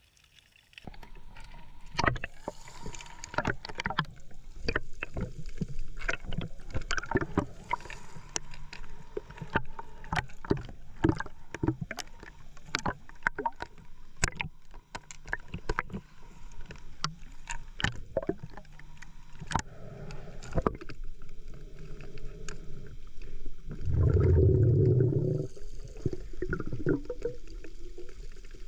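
Underwater sounds heard through a diving camera: a dense run of sharp clicks and knocks over a steady high tone, with a loud low rushing burst about three quarters of the way through.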